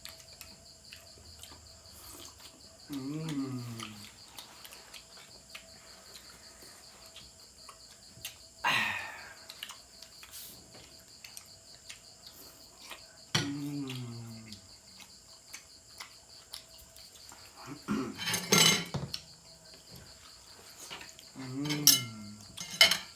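Crickets chirping steadily in the background, with intermittent clatter of plates and utensils during a meal, loudest about 9 seconds in and again around 18 seconds. Three short vocal murmurs come in between.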